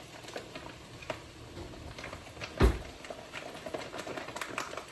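Rice being spooned into a frying pan: a kitchen utensil scraping and tapping with scattered light clicks, and one louder knock about two and a half seconds in.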